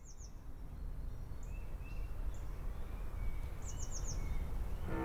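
Outdoor ambience fading in: birds chirping, with a quick run of four high chirps at the start and again near the end and scattered single chirps between, over a low steady rumble.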